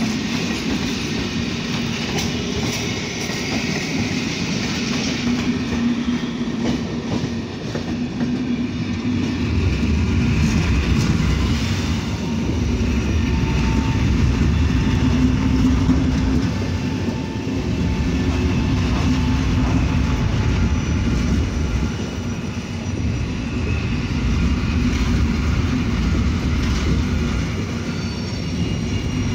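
Passenger trains rolling slowly past on the station tracks: first Intercity coaches, then an EN57AKM electric multiple unit. The sound is continuous, and a heavier low rumble comes in about nine seconds in as the multiple unit passes close by.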